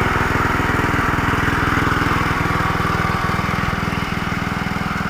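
Small single-cylinder mower engine running steadily at a fast, even firing rhythm.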